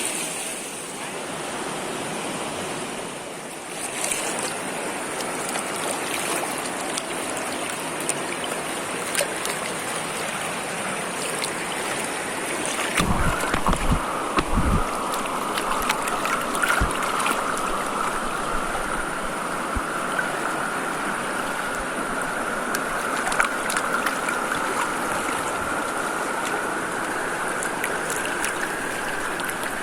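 Steady rushing water with a continuous hiss. A few low bumps come about halfway through.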